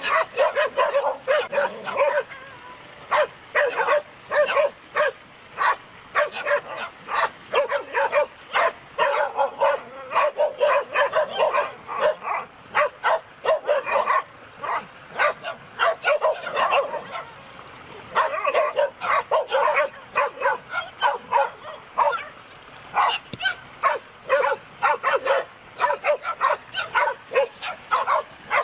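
Several dogs barking at a crocodile in a rapid, near-continuous stream of short barks and yips, with brief lulls.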